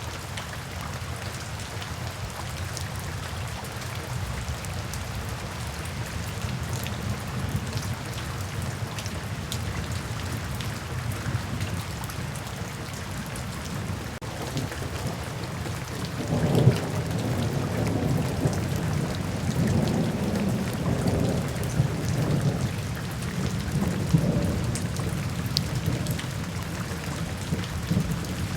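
Steady rain falling, with a long roll of thunder rumbling in just past the middle and fading away near the end.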